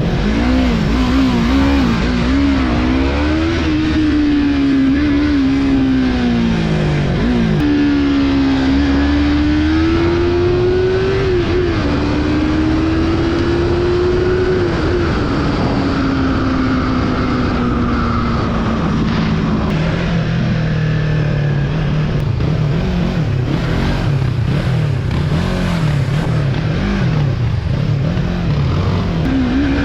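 Yamaha MT-03's 321 cc parallel-twin engine under way, its revs rising and falling as it is ridden, with a sharp drop like a gearshift about seven seconds in. Around the middle the revs wind down slowly, stay low and uneven for a while, then pick up again near the end. A steady rush of wind and road noise runs underneath.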